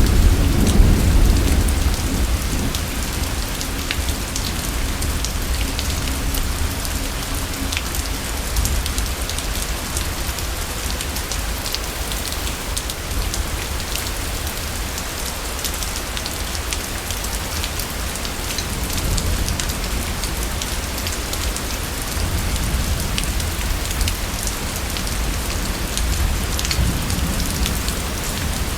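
Steady heavy rain with many individual drops ticking. A low thunder rumble in the first two seconds or so dies away.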